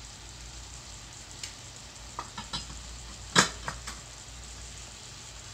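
Chopped onions and tomatoes sizzling steadily in hot oil in a kadai. A few light clicks come through, and about three and a half seconds in there is one loud sharp knock.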